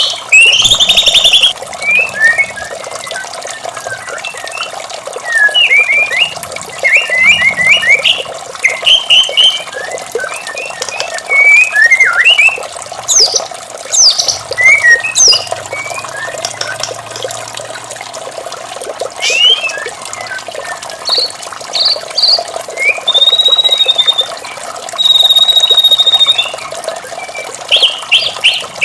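White-rumped shama singing in bursts of varied, rapid whistled and chattering phrases, including a few long held whistles a little before the end. It sings over a steady background of running water.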